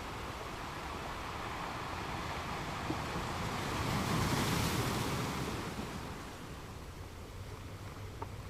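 Ocean surf: a steady wash of waves, with one wave swelling to a peak about four seconds in and then receding.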